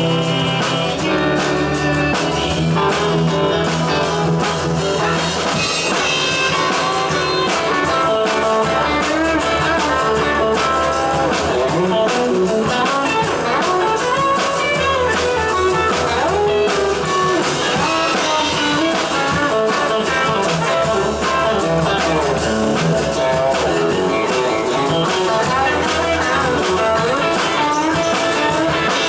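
Rock song played by a band: guitar over a drum kit, running at a steady loudness.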